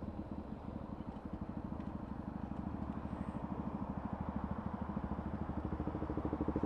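Motorcycle engine running under way, a steady pulsing exhaust note that grows a little louder near the end.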